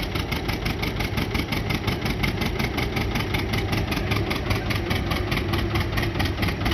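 1956 John Deere 80's two-cylinder diesel engine labouring under the load of a pulling sled, lugged down so low that each cylinder firing can be counted. It gives an even, heavy popping beat of about six or seven firings a second.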